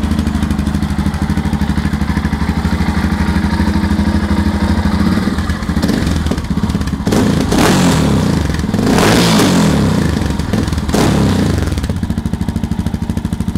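Aprilia Pegaso 650's single-cylinder engine idling with an even, pulsing exhaust beat, then revved three times about halfway through, the middle rev the longest and loudest, before it drops back to idle.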